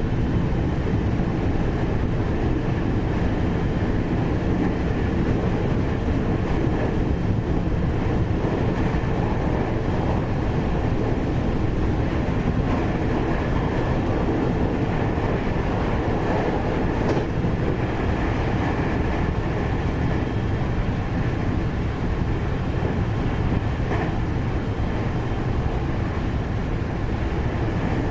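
Inside a 521 series electric multiple unit motor car, a steady rumble of wheels on rail and running gear while the train runs along at speed, with a faint steady high-pitched tone above it.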